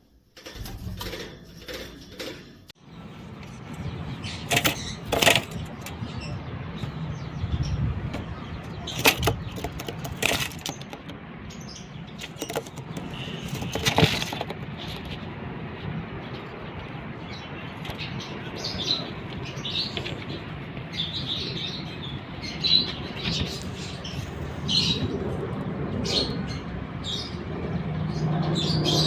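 Pet birds chirping, with wings flapping and scattered sharp clicks and knocks; the chirping grows busier in the second half.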